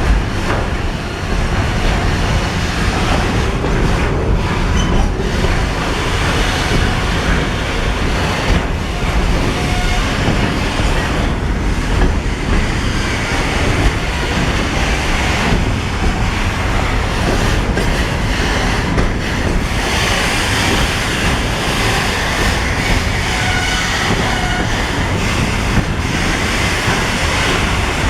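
Container freight train rolling on the rails during shunting with a ChME3 diesel shunting locomotive: a steady loud rumble and clatter of wheels on track, with a few brief faint wheel squeals.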